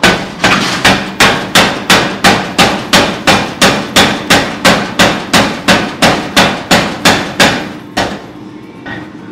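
Hammer blows on hot steel forging a damascus bar, a steady rhythm of just under three strikes a second that stops about eight seconds in.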